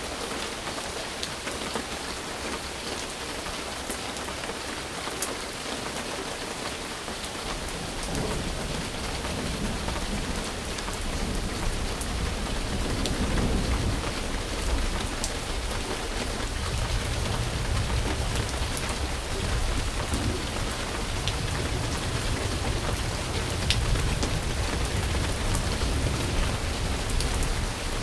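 Steady heavy rain, with scattered sharp drop ticks. About eight seconds in, a low rumble of thunder builds and keeps rolling under the rain, growing louder in the second half.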